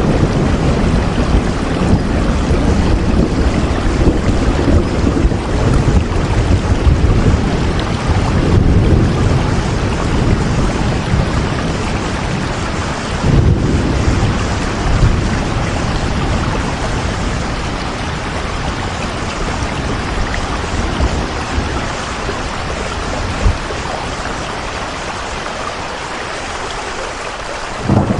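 Rain falling steadily over a deep low rumble, the rumble easing and the whole sound growing softer over the second half.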